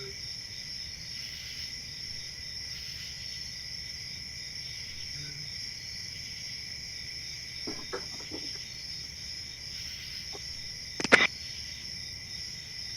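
Crickets chirping in chorus, a steady high trilling in two pitch bands. A sharp click sounds about eleven seconds in.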